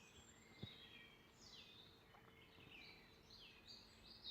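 Faint birdsong: several songbirds singing short, high, falling phrases that overlap one another.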